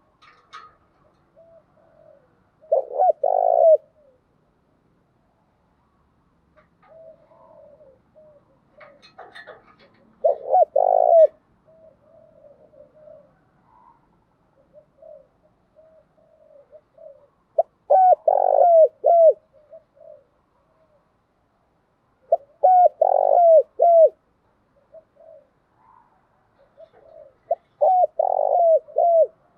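Spotted dove cooing: five loud phrases of several stepped coos, spaced about five to seven seconds apart, with softer single coos in between.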